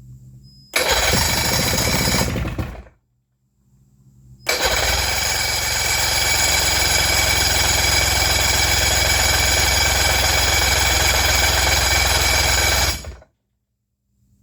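Boat motor cranking over twice: a short burst of about two seconds, then a longer run of about eight seconds. Each starts and cuts off abruptly. The owner suspects the motor is starved of fuel by a stopped-up line to the carburetor.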